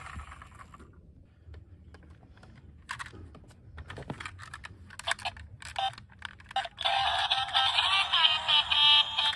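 A toy siren's wail fades out, followed by scattered plastic clicks and taps from handled toy cars. About seven seconds in, a tinny electronic tune with synthesized singing starts up, the kind played by a toy's small speaker.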